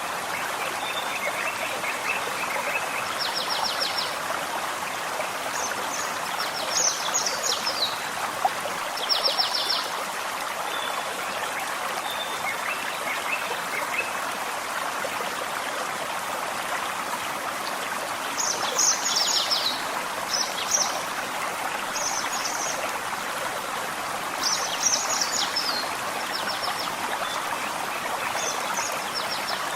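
Forest stream babbling steadily over rocks, with songbirds singing short bursts of quick, high trilled notes again and again, loudest about seven, nine, nineteen and twenty-five seconds in, and a few lower chirps between.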